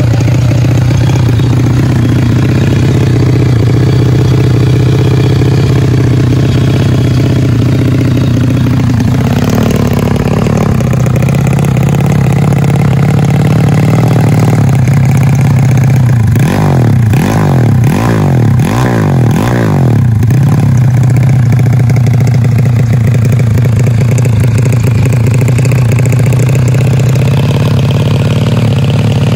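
Drag-racing underbone motorcycle engines running loud and steady, with a burst of quick throttle blips a little past halfway that rise and fall in pitch several times over a few seconds, as the bikes are revved at the start.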